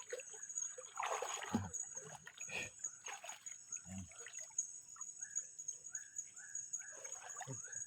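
River water splashing and trickling as a fishing net is lifted out, with a steady high insect whine over it.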